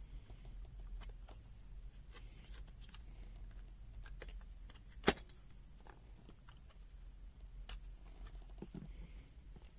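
Light plastic clicks and scrapes of a multimeter's plastic case being worked and pried apart, with one sharp click about five seconds in; the case is hard to open.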